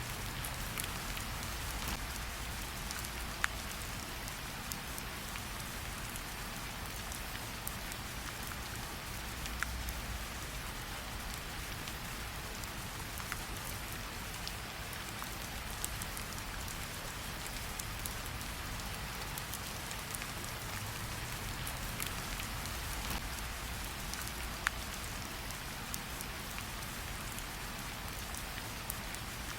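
Steady rain falling, with a campfire crackling underneath: scattered sharp pops, a few louder ones every several seconds.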